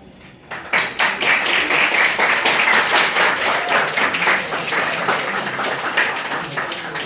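Several people applauding, a dense run of hand claps starting about half a second in and easing slightly near the end.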